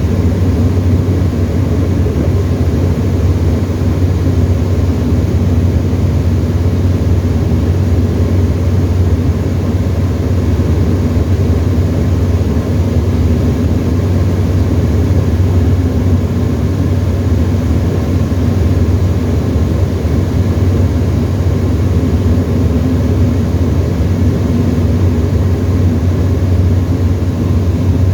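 Tecnam ultralight's piston engine and propeller running steadily in cruise, a constant low drone heard from inside the cockpit.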